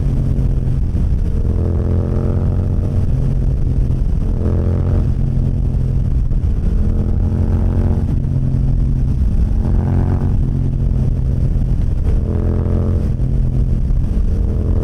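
Motorcycle engine running under way, its pitch climbing again and again every two seconds or so as the throttle is worked.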